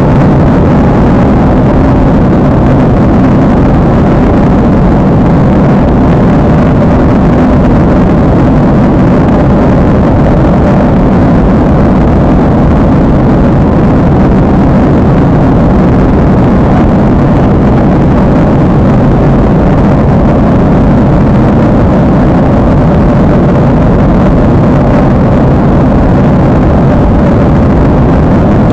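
Steady engine and airflow noise inside an airliner cabin in flight: a loud, even rumble that holds unchanged throughout, with a faint steady hum in the middle range.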